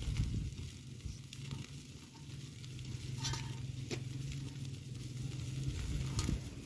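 Mutton kebab meat sizzling as it cooks, with scattered crackles over a steady low hum.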